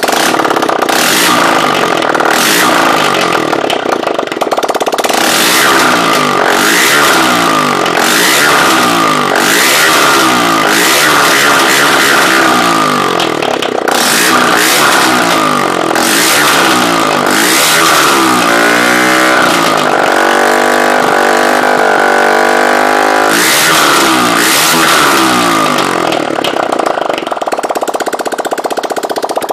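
Honda CBF125's air-cooled single-cylinder four-stroke engine running with no exhaust fitted, revved in quick repeated blips. It is then held at higher revs for a few seconds about two-thirds of the way through, and drops back toward idle near the end.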